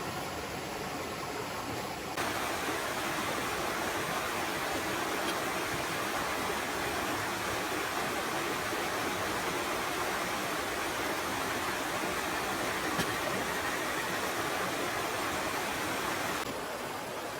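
Clear shallow stream running over rocks: a steady rushing babble. It gets louder and brighter about two seconds in and drops back near the end.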